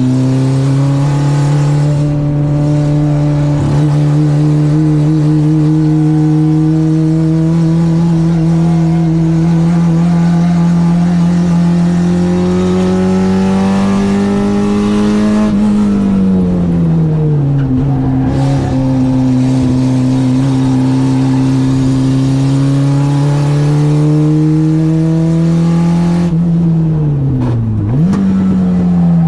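Citroen AX 8-valve four-cylinder engine on twin Weber 40 carburettors pulling hard at full throttle, revs climbing slowly through a long gear. About halfway the revs drop sharply as the throttle is lifted, then the engine pulls up through the gear again, and near the end it lifts once more with a quick dip and rise in revs, as in a downshift.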